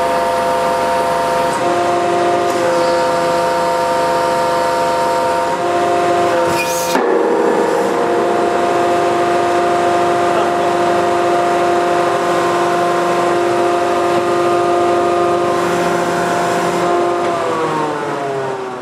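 Hydraulic press pump whining steadily as it drives the ram under load, its tone stepping in pitch a few times. There is a short sharp crack about seven seconds in, and the whine falls in pitch near the end.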